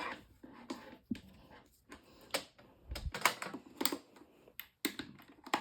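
Irregular clicks and knocks of a plastic table fan being handled as its power cord is pulled through.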